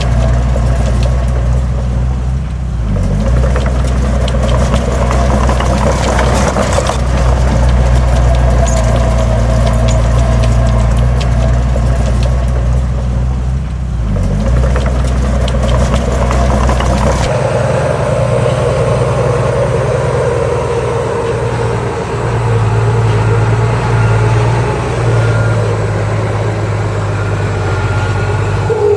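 Diesel engines of heavy earthmoving machines running steadily, with scattered knocks and clanks. The sound changes abruptly a little past halfway.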